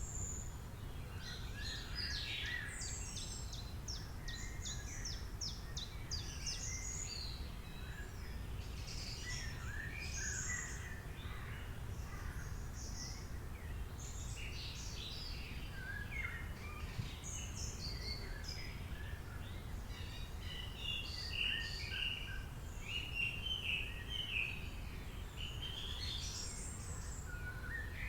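Several birds singing at once: a dense mix of short chirps, rapid trills and whistled notes over a steady low background hiss.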